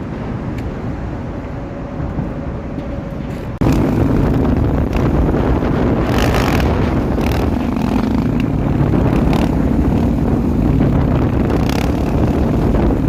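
Motorcycle engine running with wind on the microphone, the sound jumping suddenly louder about three and a half seconds in and staying loud.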